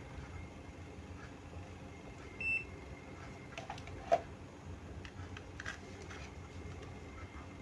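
A single short, high beep from a multimeter about two and a half seconds in. A sharp click just after four seconds and a few fainter clicks come from test probes and parts being handled.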